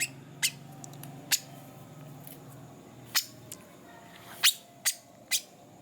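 Songbirds giving short sharp chip calls, about seven at irregular intervals, over a faint low steady hum.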